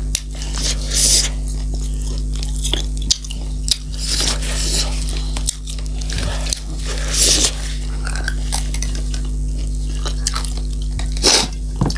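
Close-miked chewing and biting of food, with wet smacking mouth sounds every second or two, over a steady low hum.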